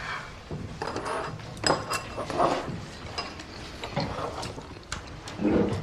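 Tableware clicking and clinking at a meal: chopsticks and utensils tapping against dishes and food containers in a series of short, scattered clicks.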